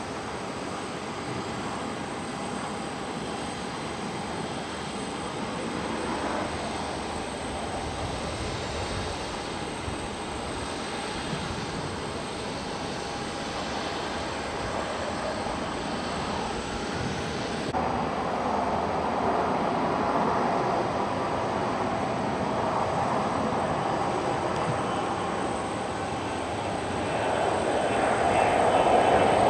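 Jet airliner engine noise at an airport, a steady wash of sound that shifts abruptly about two-thirds of the way in and grows louder near the end.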